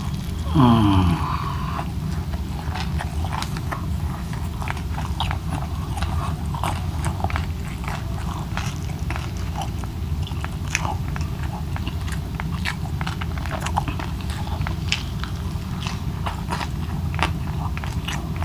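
Close-miked chewing of fried boneless milkfish, with many small crunches and mouth clicks throughout. About half a second in, a short falling "mmm" of the eater's voice stands out as the loudest moment.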